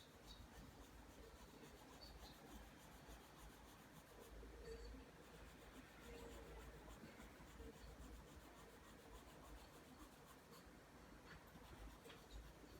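Faint pencil lead rubbing across paper as lines are drawn stroke after stroke, with small scattered ticks.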